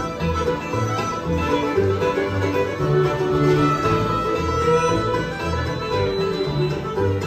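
Bluegrass band playing an instrumental passage: fiddle, banjo and guitar over a bass line that alternates between two low notes about twice a second.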